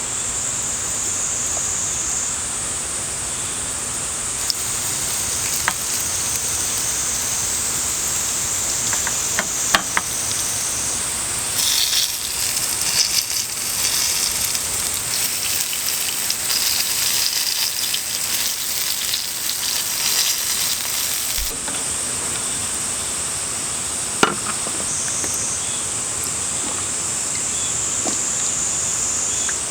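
Cicadas buzzing steadily in a high, even drone. From about twelve seconds in until about twenty-one seconds a loud sizzling hiss covers it, and a few sharp clicks are scattered through.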